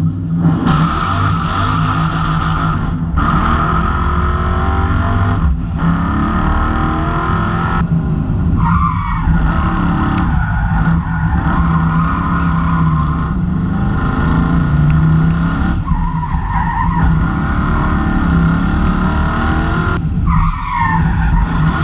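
Competition car's engine at full throttle on a hill-climb run, heard from on board. It revs up repeatedly, with brief cuts at each gear change, several in the first eight seconds and one more near the end.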